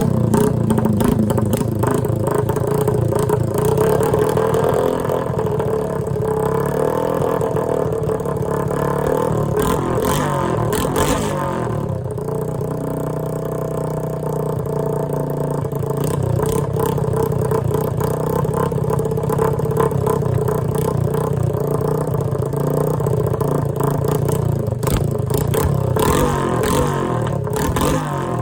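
Honda ATC185S three-wheeler's single-cylinder four-stroke engine running, having just caught on its first start after a new cylinder and top-end rebuild. Its sound changes briefly about ten to twelve seconds in.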